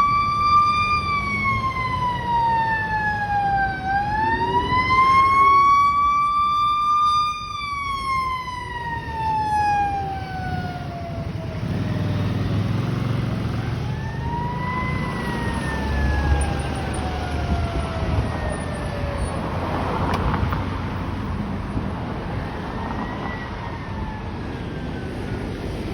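Fire engine's siren wailing, its pitch rising and falling slowly. It is loud for the first several seconds and grows fainter after about ten seconds, over the low rumble of vehicle engine noise.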